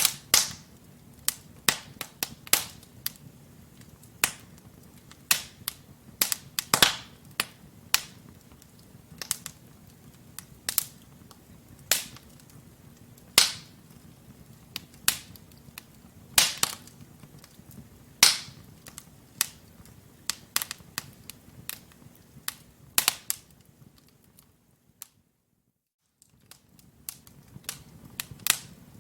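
Wood fire in a fireplace, logs burning with irregular sharp crackles and pops over a low steady rumble of the flames. The sound drops out completely for about a second about three-quarters of the way through.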